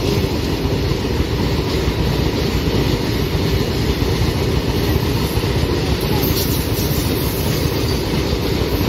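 Freight train of open-top Indian Railways wagons rolling past close by: a steady, loud low rumble of wheels running on the rails, with no break or change.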